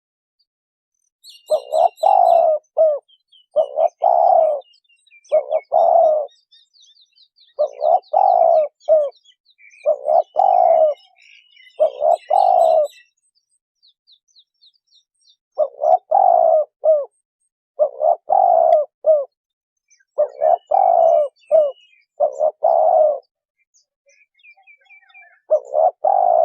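Spotted dove cooing: short repeated coo phrases, each about a second long, coming every two seconds or so, with a pause about halfway through and another near the end. Faint chirps of small birds are heard behind it.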